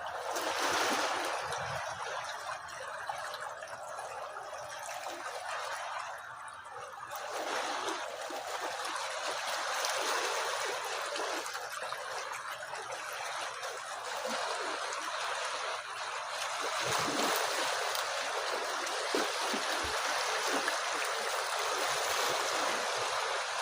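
Steady rush and trickle of moving water, swelling slightly about a second in and again from about eight seconds on.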